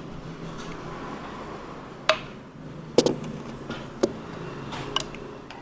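A utensil clinking against a bowl, four light strikes about a second apart, over a steady low background hum.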